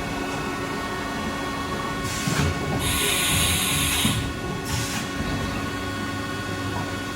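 A 2007 Haas VF-2B CNC vertical mill running, with a steady whine made of several fixed tones. About two seconds in, a burst of hissing starts, grows loudest for a second or so, then stops about five seconds in.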